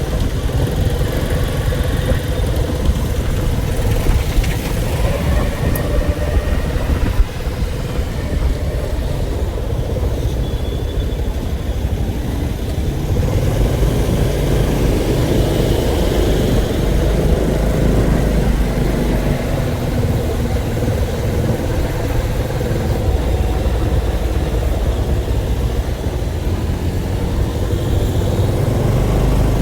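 A motor vehicle's engine running steadily with a heavy low rumble, its pitch shifting a little around the middle.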